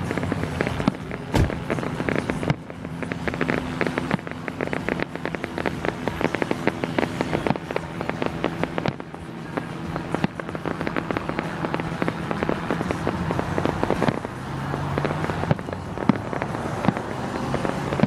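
Fireworks going off: a rapid run of bangs and dense crackling pops, busiest in the middle, with a few sharper single bangs.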